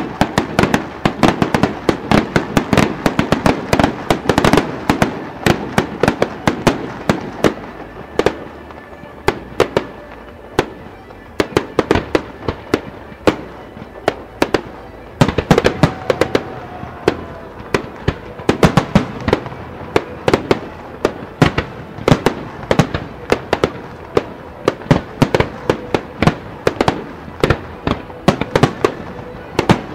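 Aerial fireworks display: a rapid, continuous string of shell bursts and crackling bangs. The bangs thin out for a few seconds in the middle, then come thick and fast again.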